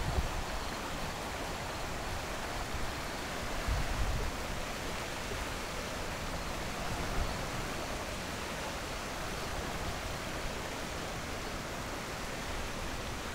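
Floodwater rushing steadily down a swollen creek that has run over its banks. Low buffeting rumbles on the microphone near the start and again about four seconds in.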